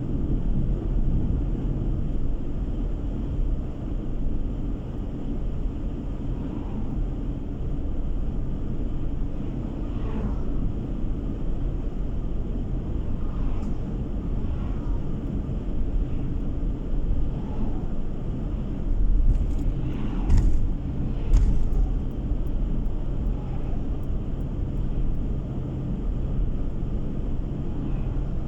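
Car driving along a road, heard from inside the cabin: steady engine hum and tyre rumble on the road surface. A few sharp knocks, likely from bumps in the road, come about two-thirds of the way through.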